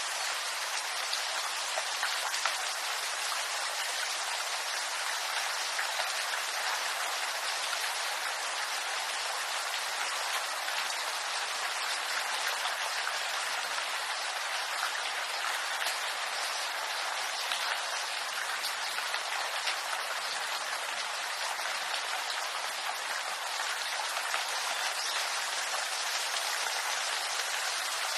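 Steady rain falling on bamboo leaves, a dense even patter of many small drops.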